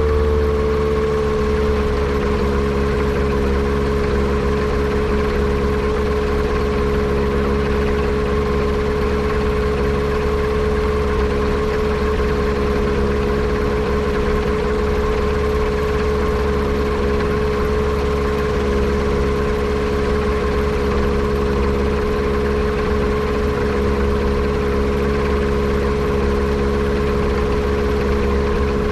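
Yamaha Apex four-cylinder four-stroke engine in a Kitfox airplane, running steadily at a constant speed after settling slightly in pitch about a second in. The engine has a misfire that the owner suspects comes from a vacuum leak.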